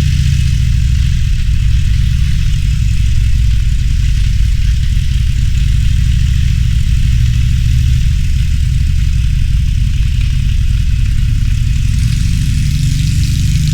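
Harley-Davidson Roadster's air-cooled V-twin engine running steadily at low revs, a continuous low rumble without any clear revving.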